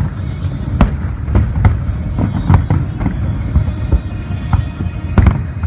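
Fireworks shells bursting in quick, irregular succession over a continuous low rumble: a dozen or so sharp bangs and cracks, the loudest about a second in and another near the end.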